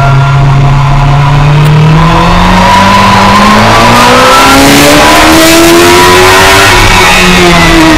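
Suzuki sport motorcycle engine under hard acceleration on track: the engine note holds steady, climbs steadily for about five seconds, then drops near the end, with wind rush over the onboard microphone.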